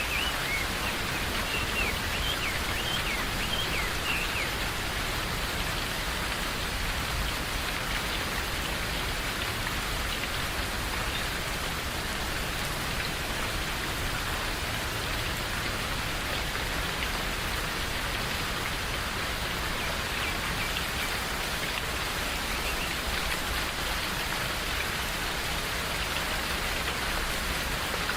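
Steady rain falling in a forest, an even hiss of drops throughout. Birds chirp over it in the first few seconds and faintly again about twenty seconds in.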